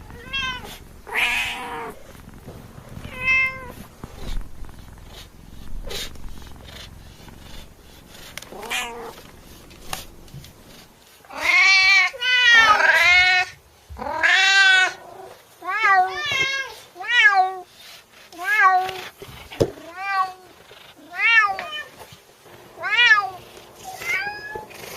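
Domestic cat meowing over and over. A few scattered meows come first, then a loud run of long, drawn-out meows about halfway through, then short meows roughly once a second.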